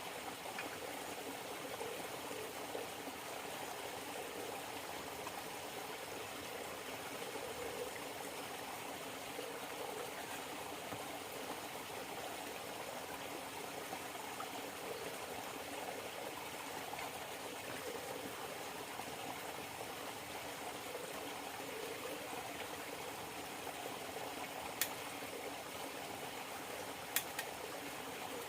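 River water flowing steadily, with two sharp clicks near the end.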